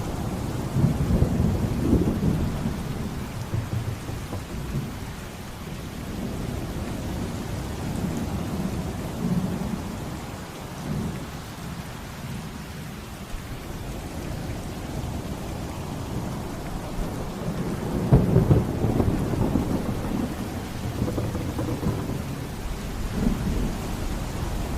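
Steady heavy rain with rolling thunder: a loud low rumble swells about a second in and fades over a few seconds, and a second one comes about 18 seconds in, with fainter rumbles between.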